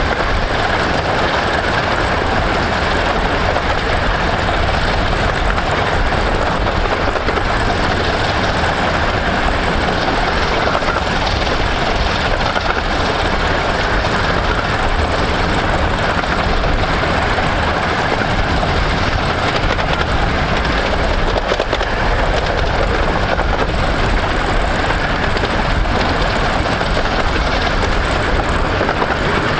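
15-inch gauge miniature railway train running steadily along the line: a continuous, even rumble of wheels on rail.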